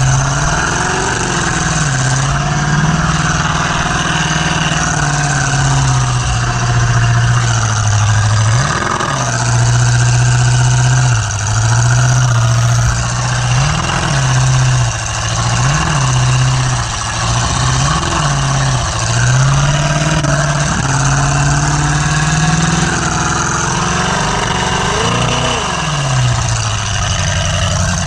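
Demolition derby car's engine running hard, with several quick revs rising and falling every few seconds, heard from on board the car.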